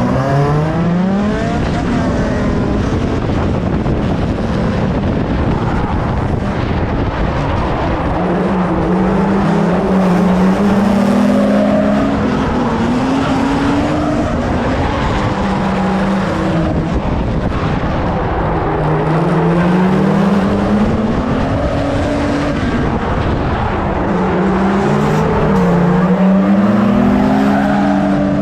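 BMW car engine revving hard through the gears, its pitch climbing and dropping back at each gear change several times, over road and tyre noise.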